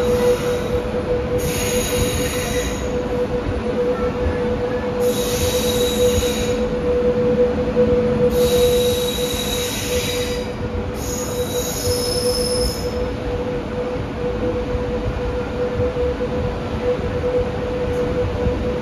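Passenger train coaches rolling slowly out of a station, heard from an open coach door: a steady whine runs throughout, and four bouts of high wheel squeal come in the first thirteen seconds or so.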